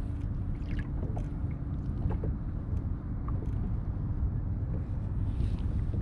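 Wind rumbling on the microphone, with a faint steady hum underneath and scattered light ticks.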